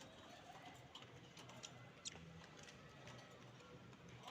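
Near silence with faint scattered clicks and light scratching from budgerigars, over a faint low hum.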